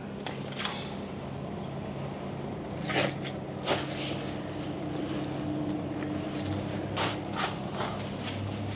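Sharp clicks and knocks of a cabin tent's metal frame being handled and fitted, a few separate strokes over a steady low mechanical hum.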